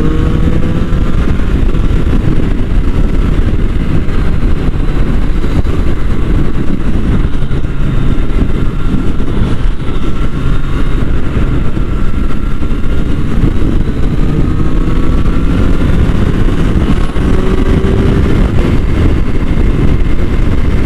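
Triumph Street Triple R's three-cylinder engine running while riding, its pitch climbing as it accelerates near the start and again later, under a steady rush of wind and road noise.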